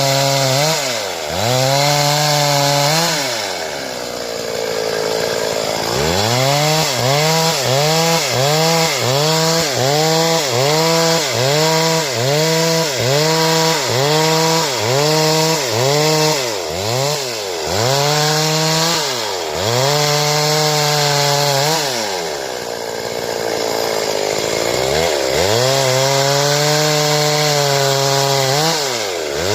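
Stihl two-stroke chainsaw cutting wood into boards. The engine repeatedly revs up to a high whine and drops back toward idle: quick dips about once a second through the middle, with a few longer drops.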